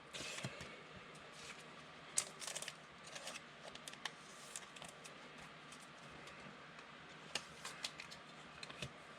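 Faint scattered clicks and rustles of trading cards being handled and flipped through, with a sharper click about two seconds in.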